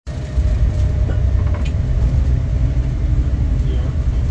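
Steady low rumble of a passenger train rolling along the track, heard inside the coach, with a faint steady hum and a couple of light clicks.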